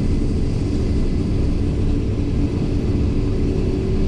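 Diesel engine of heavy farm machinery running steadily under load: a loud, even low drone with a constant hum.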